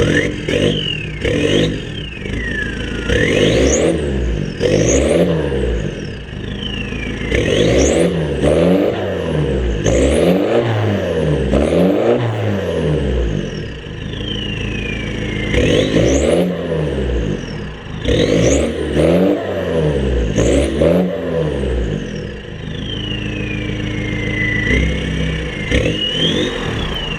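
BMW E46 320d's turbocharged four-cylinder diesel, exhaust straight-piped, revved up and let fall back again and again. A hybrid turbo whistles as it spools up with each rev and spools down as it drops.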